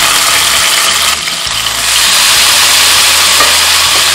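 Boiled beef pieces, still wet from cooking, sizzling loudly as they are dropped into hot coconut oil in a kadai: a steady hiss that dips briefly about a second in.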